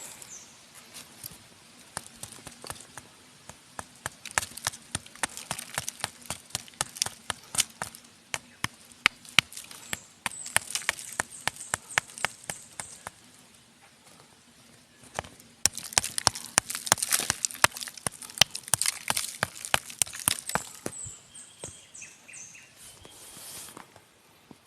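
Irregular crackling clicks and rustling scrapes, coming in stretches of a few seconds with quieter gaps between, and a few short high chirps near the end.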